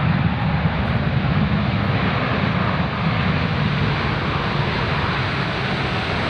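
Jet airliner engine noise: a loud, steady rush that holds level throughout.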